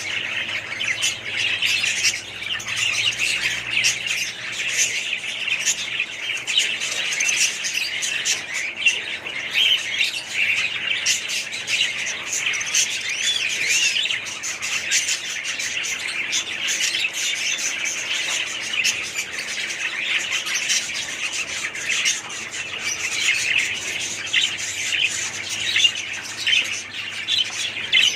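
Many small parrots chattering and squawking at once in a dense, unbroken din of overlapping chirps.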